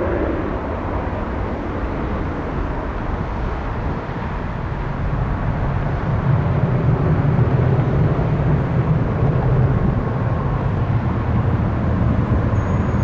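Jet airliner engines heard at an airport: a steady low rumble that grows louder about five seconds in, with a faint steady whine.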